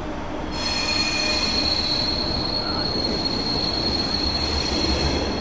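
ICE high-speed train rolling slowly past along the platform, with a steady high-pitched wheel squeal that sets in about half a second in over the low rumble of the cars.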